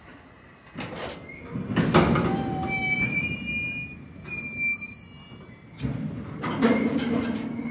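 Freight train of TEA bogie tank wagons rolling slowly past, the wheels rumbling with several heavy knocks about one, two and six seconds in. A high squeal from the wheels rings out in the middle.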